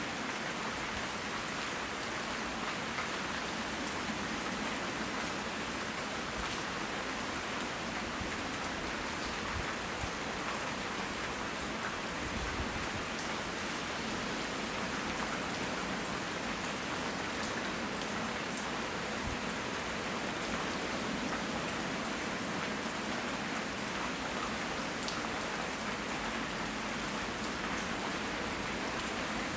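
Steady tropical rain falling: an even hiss of rain on surfaces, with scattered individual drops ticking through it.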